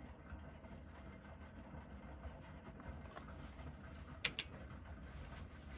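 Quiet room tone with a steady low hum, broken by two sharp clicks close together a little past the middle and one more click at the very end.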